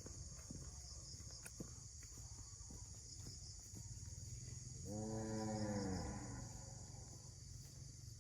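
A single drawn-out animal call lasting about a second and a half, midway through, heard over steady insect chirping and a low rumble.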